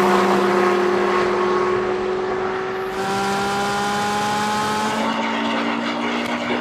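High-performance sports car engine running hard at high revs under full acceleration, its pitch climbing slowly with a change partway through.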